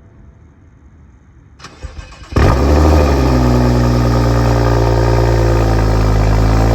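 BMW N55 turbocharged straight-six with a catless downpipe and straight-piped exhaust, valves closed, cold-started: a brief crank about two seconds in, then it fires and settles into a loud, steady idle.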